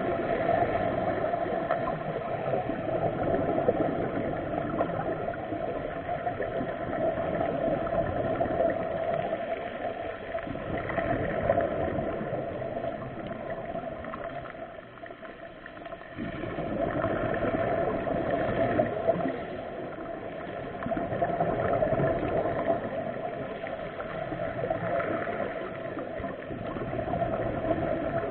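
Underwater sound of a scuba dive: air bubbles from a diver's regulator gurgling and rushing in waves, with a brief lull about halfway through.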